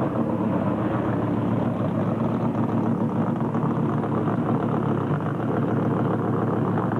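A Ford Anglia drag car's engine running steadily at low revs as the car rolls slowly past.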